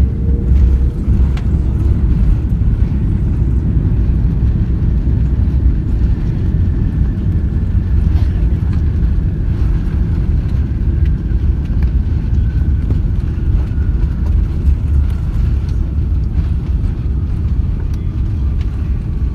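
Airbus A330-300 cabin noise heard from an economy seat: a loud, steady low rumble, with a faint whine that slowly falls in pitch through the second half.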